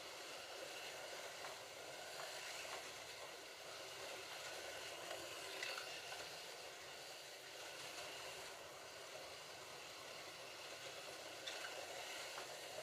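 Slot cars running laps on a plastic slot track: a faint, steady whirring hiss from their small electric motors and the cars running along the track, with a few small clicks.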